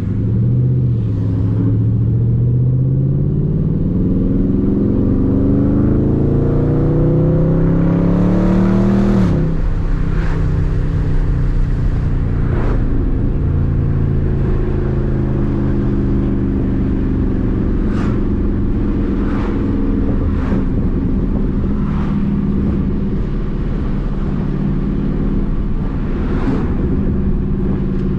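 Dodge Charger Daytona 392's 6.4-litre HEMI V8 accelerating through a gear, its pitch rising steadily for about nine seconds, then dropping suddenly as it upshifts and settling into a steady cruise.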